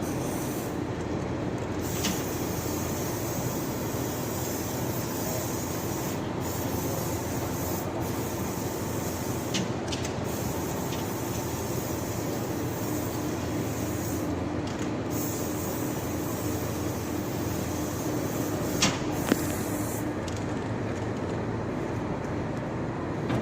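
Steady machinery noise with a constant hum, broken by a few short sharp clicks, one of them near the end.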